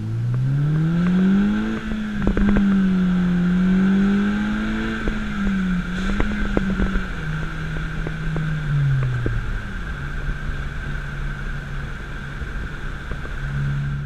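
2013 Honda Civic Si's 2.4-litre four-cylinder engine heard through an AP muffler, with the factory resonator kept. The engine note rises over the first second or two, holds, then falls back in two steps later on and settles to a steady lower note. A few sharp clicks come about two seconds in.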